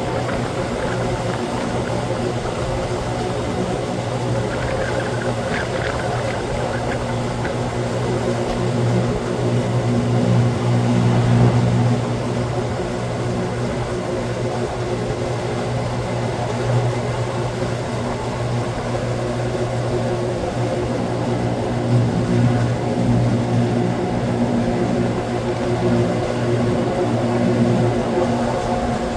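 Electric rack-railway train of the Wengernalpbahn running, a steady low motor hum with a few higher steady tones over it. It swells slightly around ten seconds in and again a little after twenty seconds.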